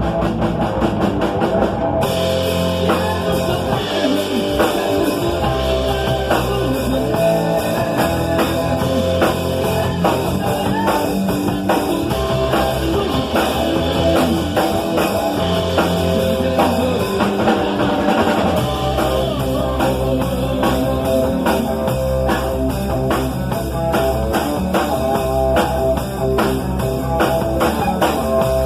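Rock band rehearsing a metal-style cover song: electric guitar over a drum kit, with the cymbals and fuller guitar coming in about two seconds in.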